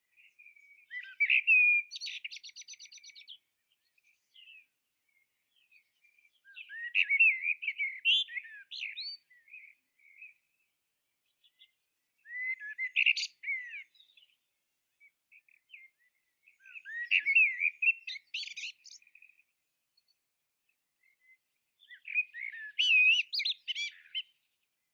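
A songbird singing in short, warbling phrases, five of them with pauses of a couple of seconds between, the first ending in a fast buzzy trill.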